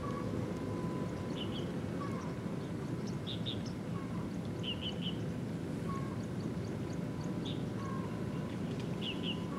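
Short, repeated bird calls: little clusters of two or three high chirps about every second, and a lower brief falling note about every two seconds. Under them runs a steady low rushing background noise.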